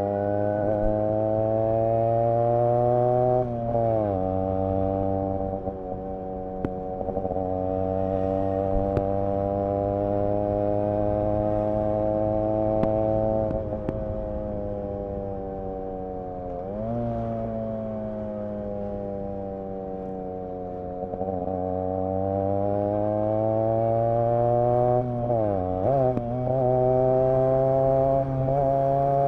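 Yamaha RX 100's single-cylinder two-stroke engine and exhaust running under way. The engine note climbs slowly and drops sharply about four seconds in, around the middle, and again near the end, each time picking up again.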